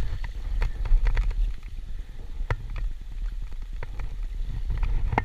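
Low rumble of wind and handling on a GoPro's microphone, with scattered clicks and knocks from someone clambering over rocks or a log. One knock about two and a half seconds in is sharper than the rest.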